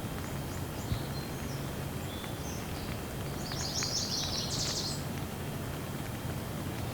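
Steady rain with birds chirping high above it, a quick run of chirps about halfway through. A few faint drips tick now and then.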